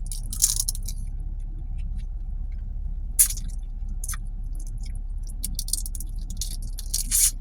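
Scattered crackles, crinkles and clicks from handling and eating seafood and its packaging, over a steady low hum inside the car.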